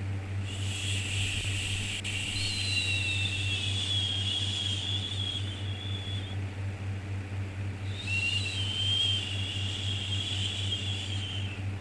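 Long drawn-out "shhh" shushing for soothing a baby, repeating: one shush runs until about six seconds in, then after a short gap another begins and fades near the end. A steady low hum sits underneath.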